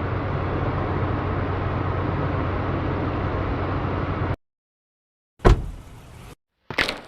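Monster truck engine sound effect running steadily with a deep hum for about four seconds, then cutting off suddenly. About a second later comes a sharp loud thump, followed by a short stretch of fainter noise.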